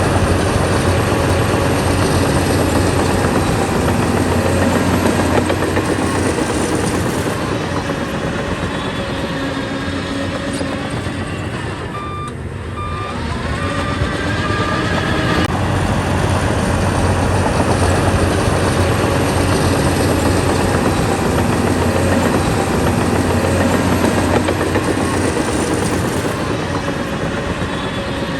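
Heavy diesel earthmoving machinery running continuously at working load, its engine noise easing briefly about twelve seconds in before building up again.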